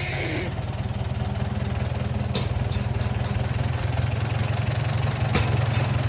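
Farm vehicle engine running steadily at low revs with an even pulsing rumble, and two sharp clicks, a little over two seconds in and again near the end.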